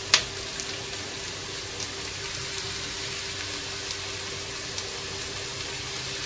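Diced potato and onion sizzling steadily in oil in a metal kadai, with one sharp metallic clink just after the start.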